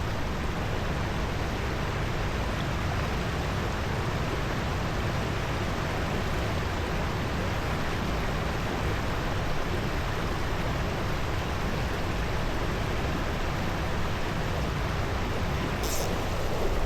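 Steady rushing of a small stream's water over rocks, an even, unbroken sound.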